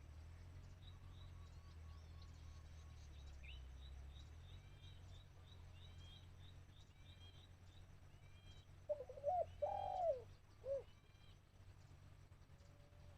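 Spotted dove cooing: a short phrase of low coos about nine to eleven seconds in, with small birds chirping faintly and high throughout.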